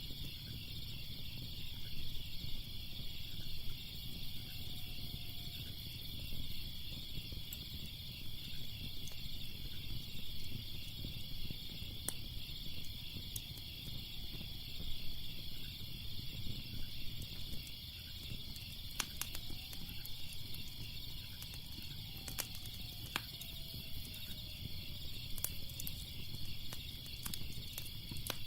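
Crickets chirring steadily in a fast pulsing trill over a low steady rumble, with scattered sharp crackles and pops from a fire that come more often in the second half.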